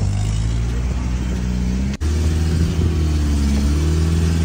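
Volkswagen Saveiro G4 pickup's engine running at low revs under light throttle as it is crept forward onto a car trailer, its note rising and falling slightly. It drops out for an instant about two seconds in.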